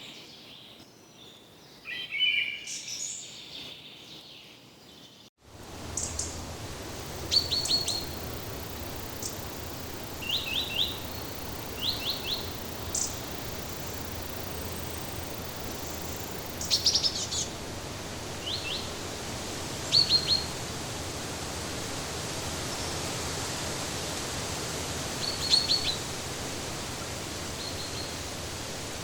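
Wild birds calling: short, high chirps in quick groups of two to four, repeated every second or two over a steady, even hiss of background noise that starts with a cut about five seconds in.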